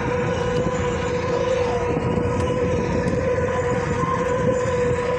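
Ferry's engines and machinery running steadily as the boat leaves port: a constant low rumble with a steady hum held at one pitch.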